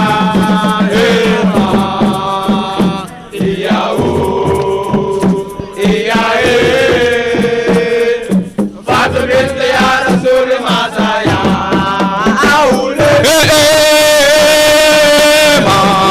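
Chanted vocal music: a sung refrain of Islamic praise over a musical backing. A pulsing beat is heard in the first couple of seconds, and long notes with a wavering pitch are held near the end.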